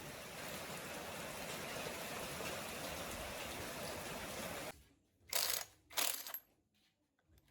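A steady rushing hiss that cuts off abruptly, followed a little later by two short, sharp hissing bursts about two-thirds of a second apart.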